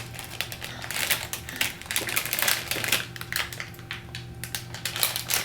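Plastic blind-bag wrapper crinkling and crackling in the hands as it is torn open, a dense run of irregular crackles.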